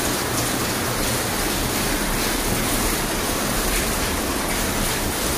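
Steady rain falling outside, heard from inside a room as an even hiss that does not let up.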